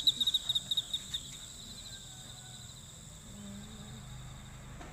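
Night insects chirping: a fast pulsed high chirp, about a dozen pulses a second, that fades out about a second in, over a steady high insect trill.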